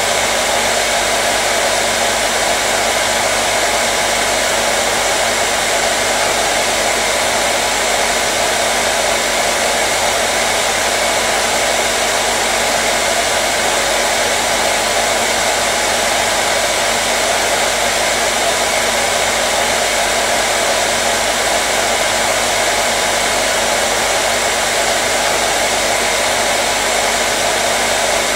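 Hair dryer running steadily at one setting: a continuous, even rush of blown air over its motor's steady hum.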